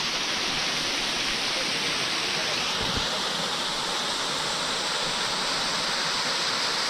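Waterfall: water falling steadily, a dense, even rushing noise.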